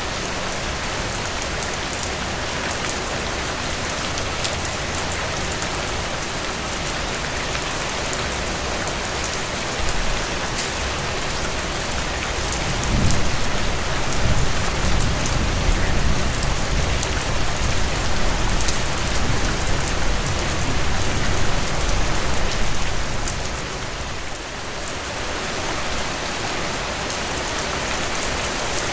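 Steady rainfall, an even hiss of drops on surfaces. Partway through, a deep low rumble swells under the rain for about ten seconds, then fades.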